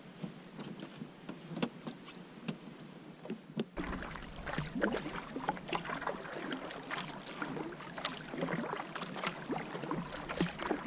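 Kayak paddling on a lake: the paddle blades dip and splash in the water with irregular drips and small splashes. About four seconds in, the water sounds get louder and a low rumble joins them.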